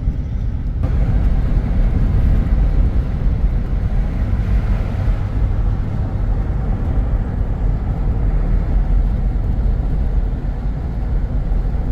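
Car driving, with a steady low rumble of road noise.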